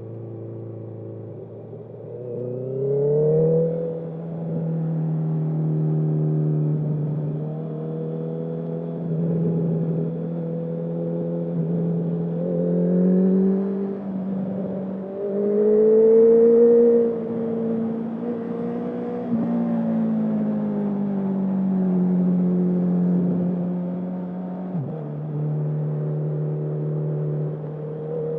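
Honda CB650R's inline-four running through a full Akrapovic exhaust with no dB killer while riding: the engine note drops as it slows at the start, climbs under throttle about three seconds in, holds steady, pulls hardest and loudest about halfway through, then eases off and settles into a steady cruise.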